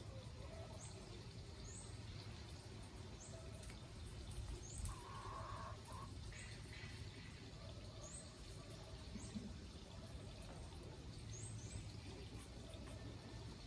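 Faint outdoor ambience: a bird's short, high, rising chirp repeating every second or two over a low steady rumble, with a brief louder sound about five seconds in.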